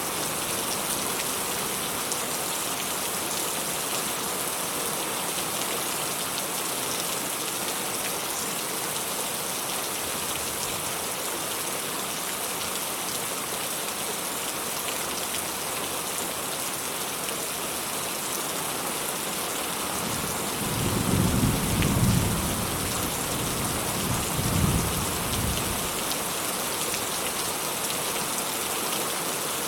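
Steady heavy rain hissing on a surface, with distant thunder rumbling low about two-thirds of the way through, in two swells a few seconds apart.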